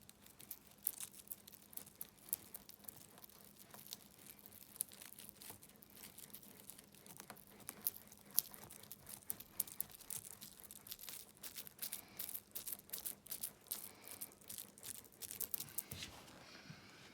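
Soft crinkling and crackling of a tube repair patch being handled and its backing peeled off, with many small irregular ticks.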